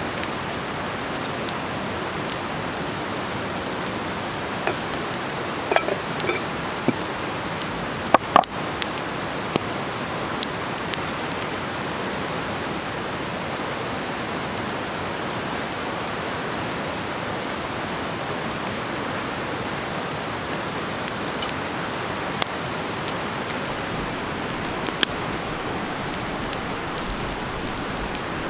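Vegetables sizzling in a pan over a campfire: a steady hiss with scattered short pops and clicks, the loudest cluster about six to eight seconds in.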